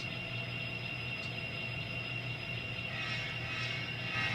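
N scale model locomotive moving off on the layout, giving a steady hum and a high, steady whine. A brighter, rising sound comes in about three seconds in.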